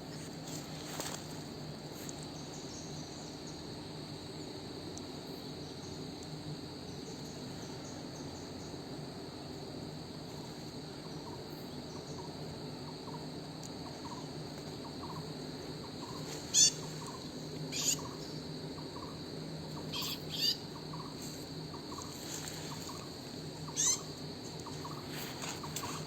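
Forest birds calling: a few short, sharp calls, several of them in quick pairs, in the second half, with a faint run of repeated lower notes before them, over a steady high insect drone.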